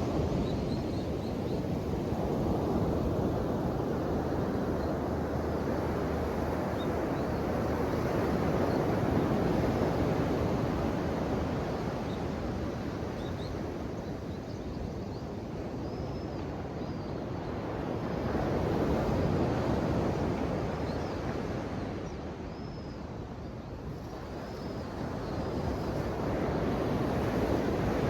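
Ocean waves washing in on the shore, the surf swelling and easing in slow surges about every nine or ten seconds.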